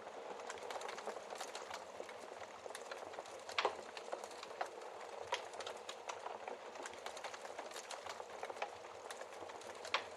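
Wood fire burning in a fireplace: a steady hiss with irregular crackles and pops, the loudest about three and a half seconds in and again near the end.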